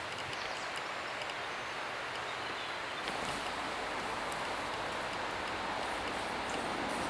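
Steady outdoor rushing noise that grows a little louder about three seconds in, with a few faint ticks.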